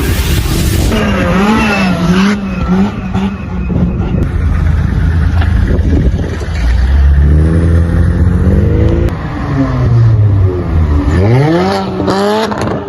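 Modified cars revving and accelerating hard as they drive off one after another. The engine pitch wavers with throttle blips, then climbs steeply twice, about halfway through and again near the end.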